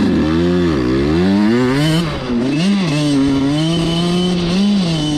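Suzuki RM85 two-stroke dirt bike engine pulling away under throttle. The engine note rises and drops several times in the first few seconds, then holds fairly steady with brief blips of throttle.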